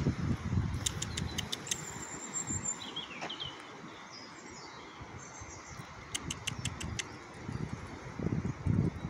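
Small birds chirping in short, high whistled notes, some of them falling in pitch, over a low background rumble that is heavier at the start and near the end.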